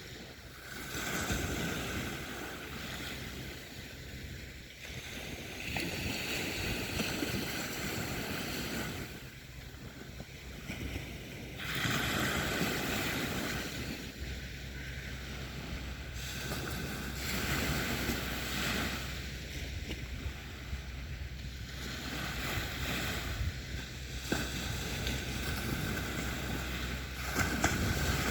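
Sea waves breaking and washing up the beach, the surf swelling and dying away every few seconds, over a steady low rumble of wind on the microphone.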